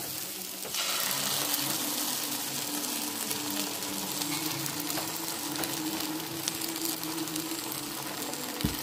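Beaten eggs poured into a hot non-stick pan of onion-tomato masala, sizzling and frying; the sizzle grows louder about a second in as the egg reaches the pan. A short knock near the end.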